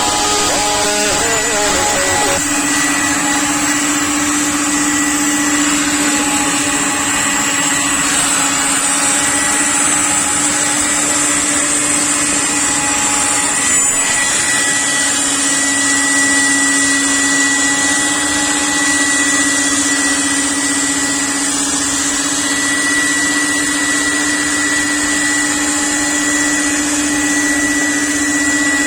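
CNC router cutting a wardrobe panel: the spindle runs with a steady whine over a constant hiss of cutting and air.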